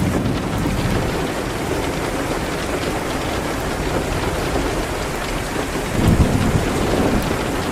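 Steady rain hitting a window, with a low rumble swelling up about six seconds in and a few faint crackles from a fireplace fire.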